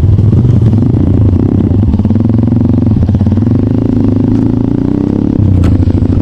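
Off-road trail motorcycle engine running, its speed rising and falling unevenly.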